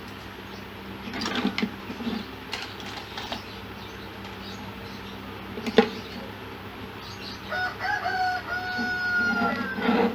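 Scattered clicks and knocks of parts being handled and fitted, the loudest just under six seconds in. Near the end a rooster crows in the background, one long call of about two and a half seconds.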